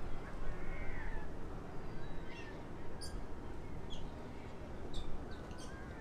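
Wild birds chirping and calling: a few short high chirps about once a second and some thin whistled notes, over a steady low rush of outdoor noise.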